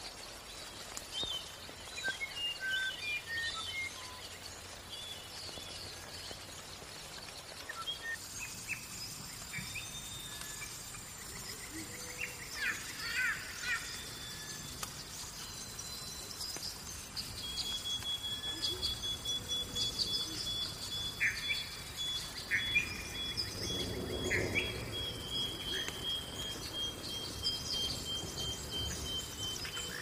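Wild birds chirping and calling, a scatter of short high notes. About halfway through, a long, even high trill sets in and drifts slightly down in pitch.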